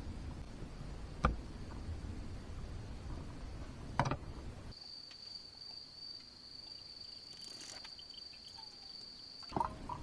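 A cricket singing one steady high-pitched trill, faint at first and much louder through the second half. Two sharp clicks, about a second in and about four seconds in.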